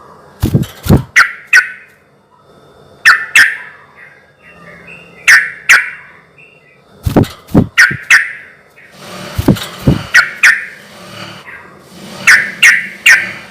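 Yellow-vented bulbul (trucukan) singing loud, bubbling song phrases. The short sharp notes come in groups of two or three, every second or two.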